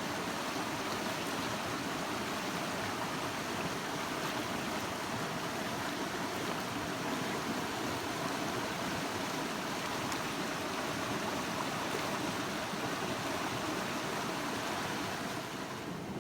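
Rushing water of a river in flood, a steady hiss that eases slightly near the end.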